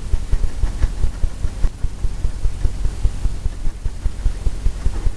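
Oil paintbrush dabbing and scrubbing paint onto a stretched canvas, the canvas giving rapid, irregular dull thumps several times a second.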